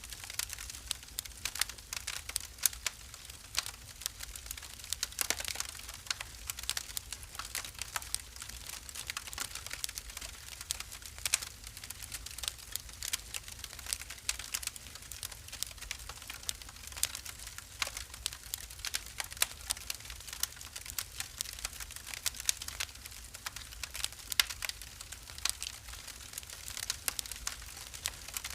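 Wood fire burning in a fireplace, crackling with many sharp irregular pops and snaps over a low steady rumble.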